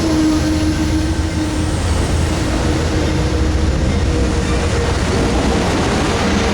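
Amtrak Southwest Chief passenger train running, a steady loud rumble with a faint steady hum through it.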